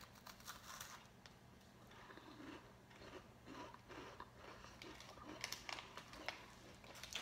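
A person biting into and chewing a crisp lemon-cream sandwich biscuit: faint dry crunches, with a steady chewing rhythm of about two chews a second.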